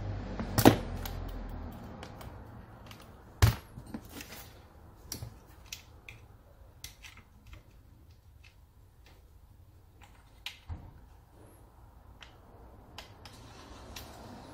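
Scattered clicks, taps and knocks of tools and small parts being handled on a workbench, with two sharp knocks, about a second in and about three and a half seconds in. A low hum fades out in the first two seconds.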